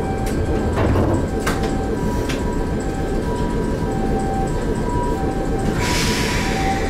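The steady rumble of a stopped Ohmi Railway 800 series electric train. From about a second in, an electronic warning tone alternates evenly between two pitches, with a few sharp clicks early on. A burst of air hiss rises near the end, just before the train departs.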